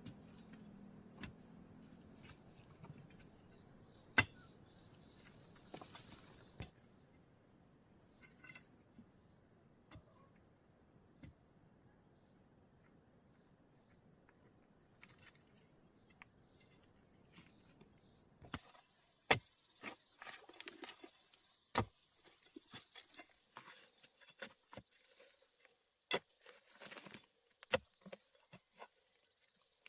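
Insects calling: a run of short high chirps for roughly the first two-thirds, then a high steady buzz in repeated stretches of a second or two, each starting with a short downward slide. Scattered sharp clicks and taps sound throughout.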